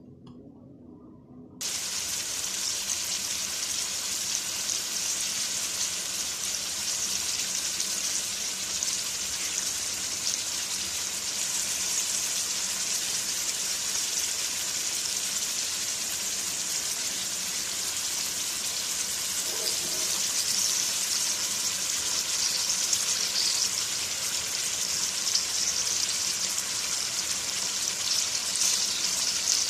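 Chicken pieces frying in oil and their own juices in a wok: a steady sizzling hiss that starts suddenly about two seconds in and grows slightly louder toward the end.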